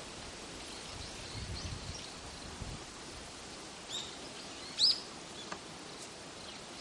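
Steady outdoor hiss with a few short bird chirps, one about four seconds in and a louder one about five seconds in.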